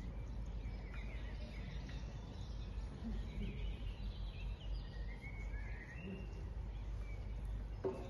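Faint small-bird chirps, several short sliding calls a few seconds apart, over a steady low background rumble.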